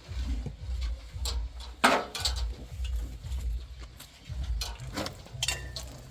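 Scattered knocks and clinks, the loudest about two seconds in, over a low, uneven rumble.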